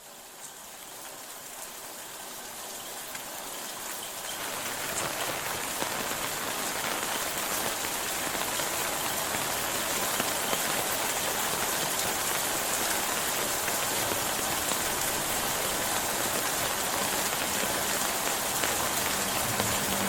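Steady rain falling, with scattered individual drops ticking. It fades in over the first several seconds and then holds steady.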